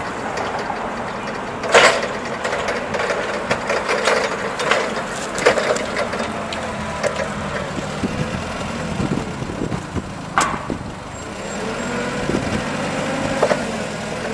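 Cat cushion-tire forklift with a Nissan K21 LP-gas engine running as it is driven, with sharp knocks and rattles from the machine, the loudest about two seconds in and again about ten seconds in.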